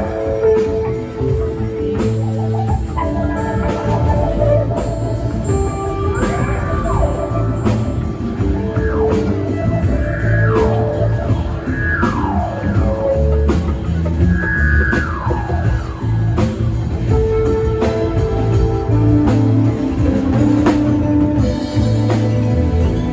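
A live rock band plays an instrumental passage: drum kit, bass and guitar, with no singing. Partway through, a lead line plays several high notes that each slide down in pitch.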